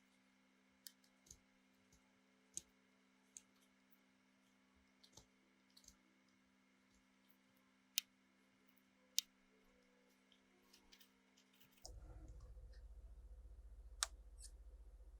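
Faint, scattered sharp clicks and taps at irregular intervals, over a steady low hum. About twelve seconds in, the hum changes to a louder low buzz.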